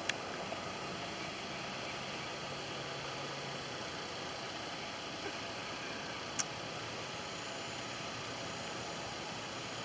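Steady outdoor background noise with a faint low hum, broken by two brief clicks, one right at the start and one about six seconds in.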